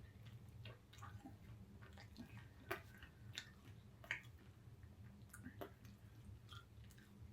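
Faint wet chewing and mouth clicks from a person eating a steak and egg burger, a scatter of soft smacks with one louder one nearly three seconds in, over a low steady hum.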